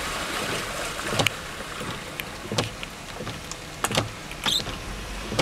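Floodwater sloshing and splashing over a steady wash of noise, with a few sharp knocks.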